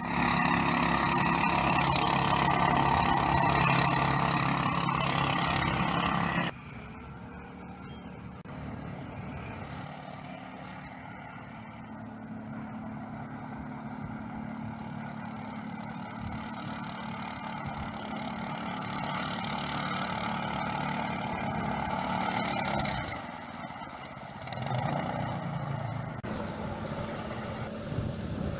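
Small boat motors running in a string of short clips: a loud engine for the first six seconds or so, then a quieter, steady engine sound, with the sound changing again twice near the end.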